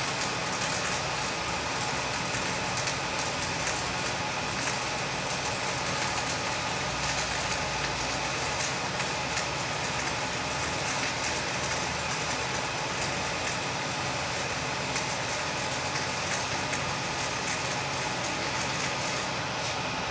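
Flux-core arc welding: a steady crackling sizzle, with a constant hum from the machinery underneath.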